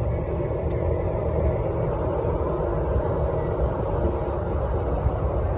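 Steady rumble of wind and road noise while riding an electric rental scooter, the wind buffeting the microphone.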